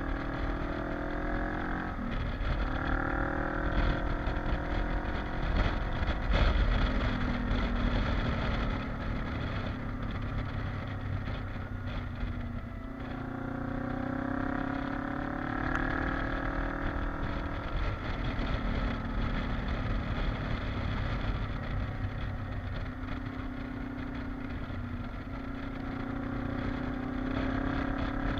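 Kawasaki KLE motorcycle engine running under way. Its pitch climbs and drops back several times: twice in the first few seconds, in a longer climb around the middle, and again near the end, with steadier running in between.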